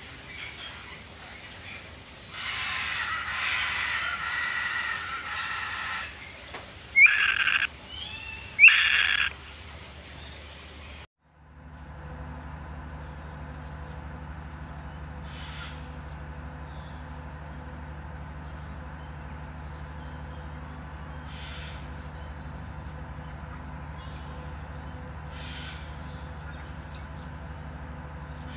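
Bird calling: a few seconds of rough, chattering calls, then two loud, shrill calls about a second and a half apart, each sweeping sharply upward. After a brief dropout only a steady low hum remains, with a few faint ticks.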